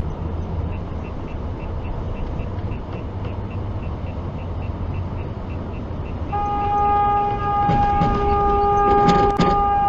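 Steady road and engine noise heard from inside a moving car, with a light regular ticking. About six seconds in, a car horn sounds and is held for about four seconds.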